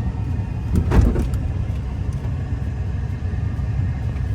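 Truck engine running with a steady low rumble as the vehicle moves slowly, and a single clunk about a second in.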